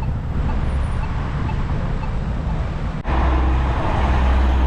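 Road traffic noise heard from a bicycle riding along a street, with a steady low rumble; the sound breaks off sharply about three seconds in and comes back louder.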